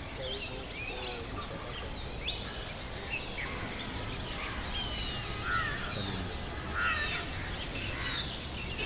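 Mixed birdsong of many short chirps and whistles over a high insect trill that pulses evenly about two to three times a second, with a steady low rumble underneath.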